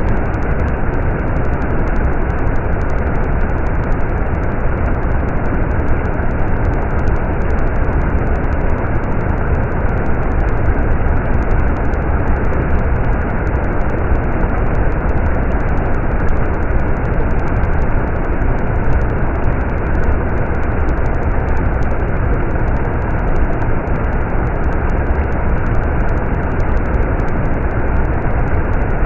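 Stream water running, a steady, unbroken rush with most of its weight in the low end.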